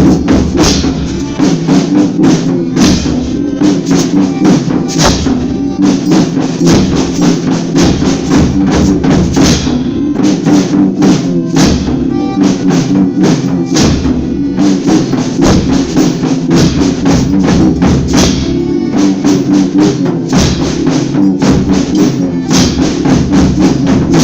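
Folia band playing an instrumental stretch between sung verses: steady, fast strokes of drum and tambourine over sustained instrument tones.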